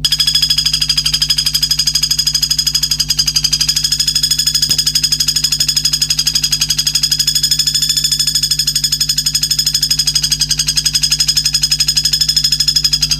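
Filler-song recording for training a white-rumped shama: a fast, steady, pulsing high-pitched trill, like an insect's buzz, with a low steady hum beneath it.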